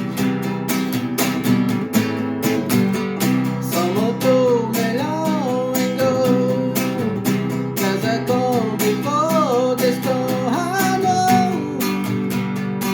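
Acoustic guitar strummed in a steady rhythm, with a wavering melody line that comes in about four seconds in.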